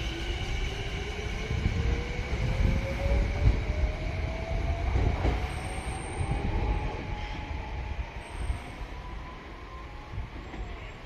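Sanyo Electric Railway train on the tracks: a low rumble of wheels under an electric motor whine that rises steadily in pitch as the train gathers speed. The sound fades off near the end.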